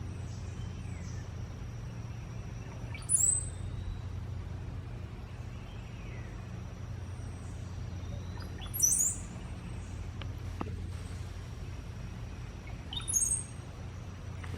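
Cowbird singing three times, about five seconds apart: short, liquid, gurgling songs that sound like water, each rising into high thin notes. A steady low hum runs underneath.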